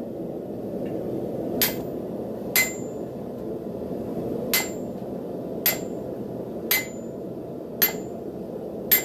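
A hand hammer strikes a hot railroad spike on a Hay Budden anvil: seven blows at an uneven pace of about one a second. Each blow gives a sharp clang with a brief high ring. A steady background rush runs underneath.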